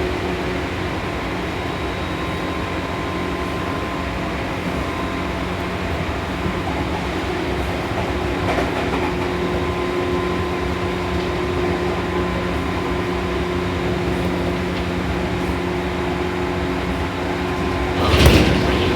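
Seibu New 2000 series electric commuter train running at speed, heard inside the car: a steady rumble of wheels on rail with a few constant hums from the running gear. A brief, louder rush breaks in near the end.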